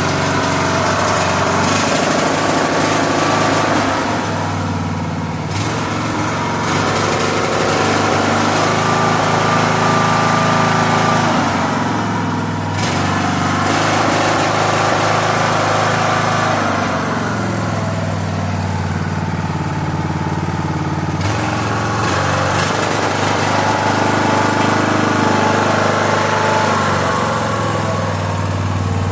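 Craftsman LT3000 lawn tractor engine running, its speed rising and falling several times rather than holding steady. It is running unevenly just after a carburetor cleaning, before it clears out.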